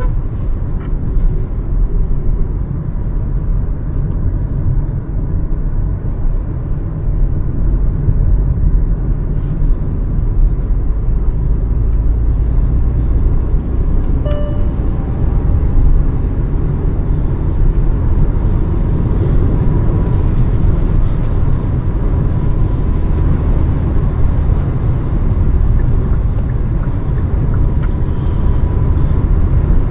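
Hyundai Verna 1.5 turbo-petrol four-cylinder car on the move: a steady low rumble of engine and road noise. A faint whine sits over it in the second half, and a brief short tone sounds about halfway.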